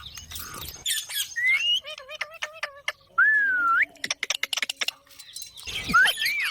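Parrot squawking and chattering: a string of rapid clicks and short chirps, a loud whistled call that dips then rises about three seconds in, and a sharp squawk near the end.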